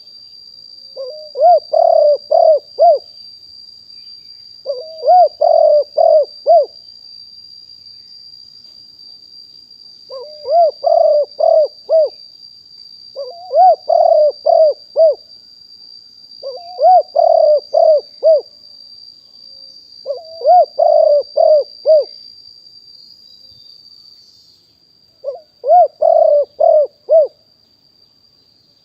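Spotted dove cooing: seven repeated phrases of four or five quick looping coos each, a phrase every three to four seconds, over a steady high-pitched whine.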